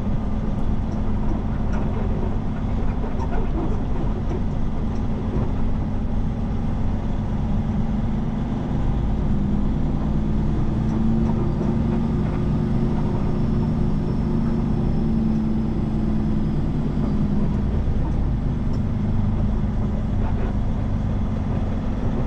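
Diesel semi-truck engine running steadily while driving down the road, its low engine tone a little stronger for several seconds in the middle.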